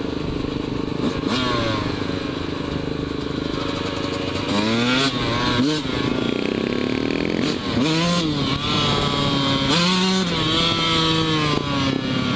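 Dirt bike engine running hard while riding, its pitch climbing and dropping several times as it accelerates and shifts.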